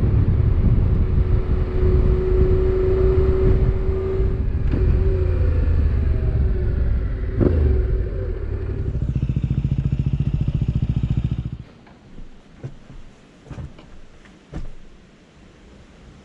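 Motorcycle engine running as the bike rides in and slows down, then idling with an even pulse before it is switched off and stops abruptly about twelve seconds in. A few short knocks follow.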